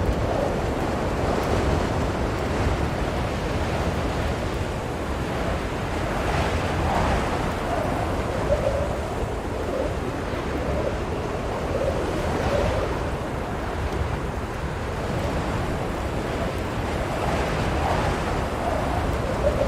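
Blizzard wind blowing steadily in slow gusts that swell and ease every few seconds, with a faint wavering whistle.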